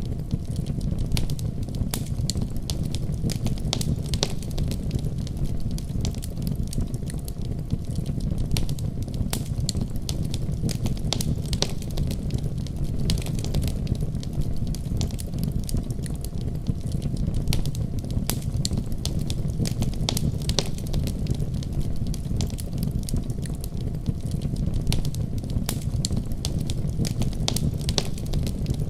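Wood fire crackling, with frequent sharp irregular pops, over a steady deep rumble of a heavy snowstorm.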